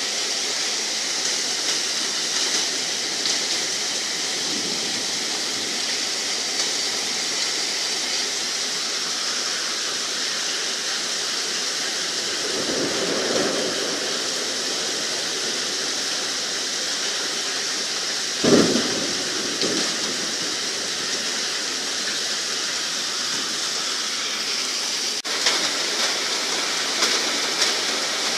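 Steady rain falling with a constant hiss, broken by two louder low swells, one about halfway through and a sharper one around two-thirds in. Near the end the sound changes abruptly and more crackling drop hits come through.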